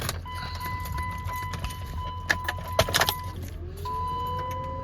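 Keys jangling and clicking at a pickup's ignition while a steady electronic warning tone sounds. Near the end a whine rises in pitch and then holds steady as the ignition is switched on, over a steady low hum.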